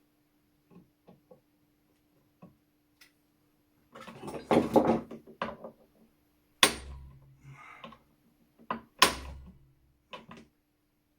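Metal tools clinking and clattering on a workbench, then a few sharp knocks with a dull thud, while working at a rusted, seized screw on an old flintlock shotgun.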